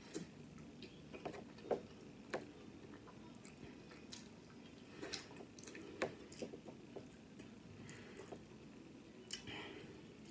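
A person chewing food close to the microphone with the mouth closed: faint, scattered wet mouth clicks and lip smacks, with a few sharper ones among them.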